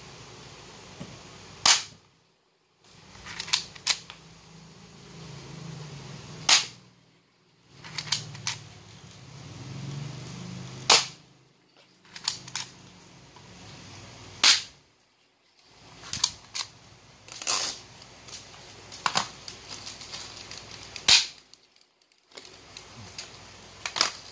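Azzuri spring-powered airsoft toy pistol being cocked and fired: five sharp snaps a few seconds apart, with smaller clicks from racking the slide between shots.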